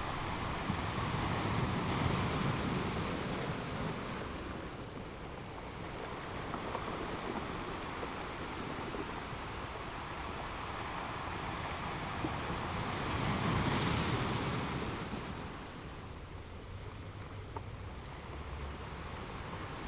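Water washing in waves: a steady rush of noise that swells and ebbs twice, about two seconds in and again about fourteen seconds in, like surf surging onto a shore.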